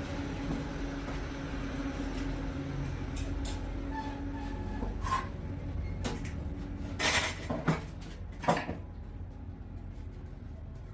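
A steady low mechanical hum, like a running machine, with several knocks and clatters of handled parts, the loudest about seven and eight and a half seconds in.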